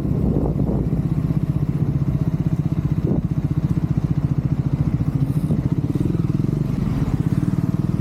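Triumph Scrambler 400X's single-cylinder engine running steadily at low revs, with an even, fast pulsing beat.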